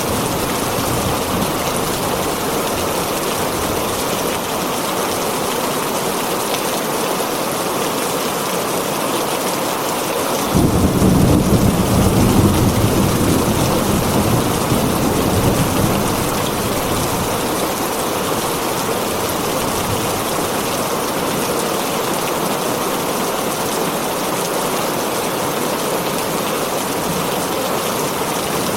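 Heavy rain falling steadily on a tin roof. A low rumble of thunder starts suddenly about ten seconds in and fades away over the next five seconds or so.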